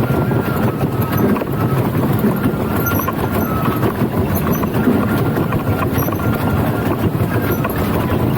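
A danjiri festival float rolling: a steady rumble from its wheels with a thin, high squeal that comes and goes, under the general din of the crowd around it.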